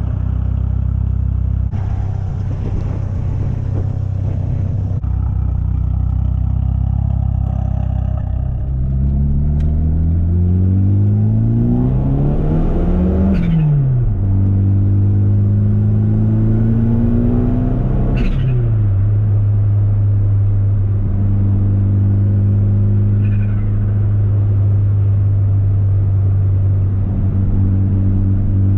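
Turbocharged Mitsubishi Eclipse GSX's 4G63 four-cylinder running steadily, then revving up in two accelerating pulls under boost. Each pull ends with a sudden drop in revs as the throttle is lifted, with a brief turbo flutter at the lift. It then settles back to a steady, even engine note.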